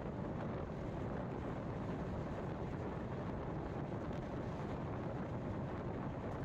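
Passenger train running, heard from on board: a steady rumble with wind noise on the microphone.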